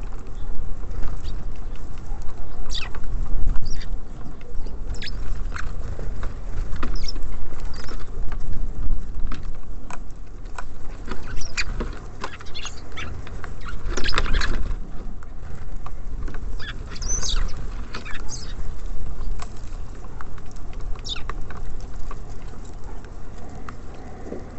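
Small birds feeding at a bird feeder: irregular taps and clicks of pecking and scrabbling at the seed, with a few short chirps, over a steady low rumble.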